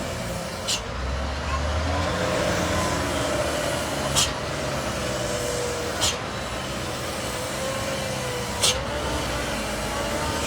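Heavy truck engine running with a steady low rumble, a wavering whine and road noise, broken by four short sharp clicks.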